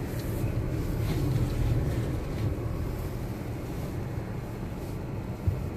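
All-wheel-drive car driving slowly through shallow snow: a steady low rumble of engine and tyres.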